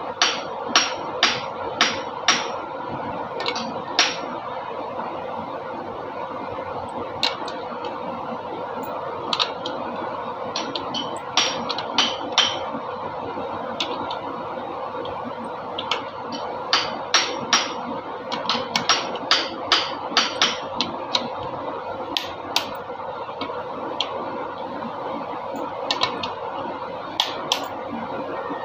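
Hand tools knocking and tapping on metal engine parts during an engine overhaul: sharp strikes in irregular clusters, over a steady background hum.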